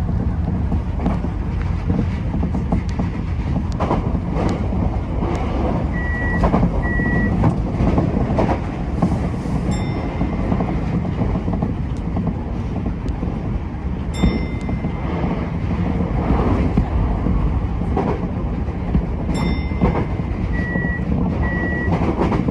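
Tokyo Metro 10000 series train running, a steady rumble with wheels clicking over rail joints. Short high electronic beeps sound several times, twice as a pair of beeps.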